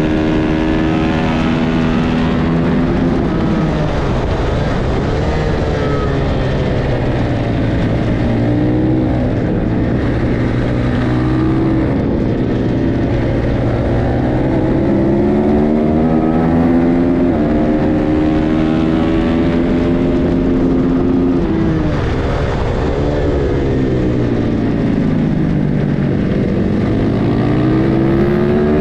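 Racing motorcycle engine at race speed, its pitch climbing through the gears under acceleration and dropping sharply under braking and downshifts several times, over a steady rush of wind noise.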